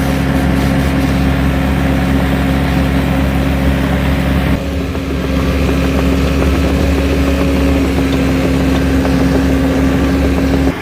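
Heavy equipment engine running steadily at constant speed, a loud even hum that drops slightly in level about four and a half seconds in.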